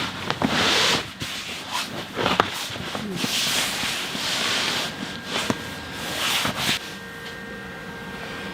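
Repeated rough scraping or rubbing strokes, each lasting about a second, mixed with sharp knocks.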